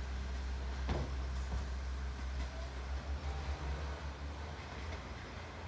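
A JR Ban'etsu East Line KiHa 110 series diesel railcar running along the track: a steady low rumble with a sharp click about a second in, growing a little quieter near the end.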